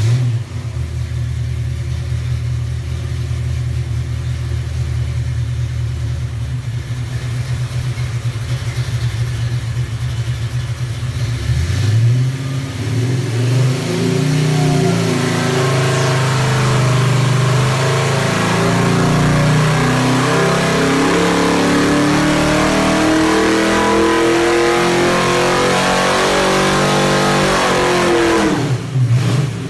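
400 cubic inch Pontiac V8 crate engine running on an engine dyno, steady at low revs for about twelve seconds. The revs then climb steadily under load in a dyno pull, and near the end the revs drop quickly as it comes off the pull.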